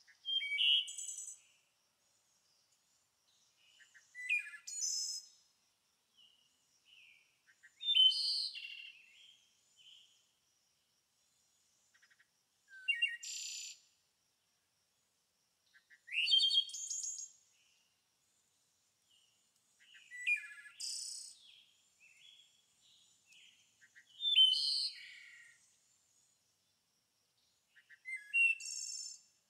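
A songbird singing short, repeated phrases of quick chirps and trills, about one phrase every four seconds, with silence in between.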